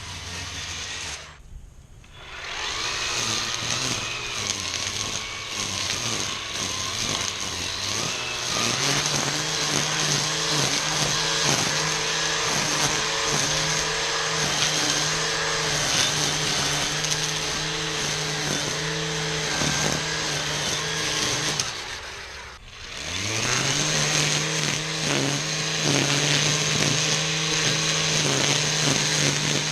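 ECHO 58-volt battery string trimmer running at speed, its line cutting through tall weeds and grass. Twice the motor drops off briefly and then spins back up to a steady high whine.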